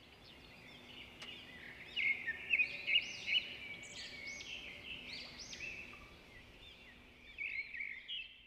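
Small birds chirping and twittering: many quick, high calls overlapping one another, loudest between about two and three and a half seconds in.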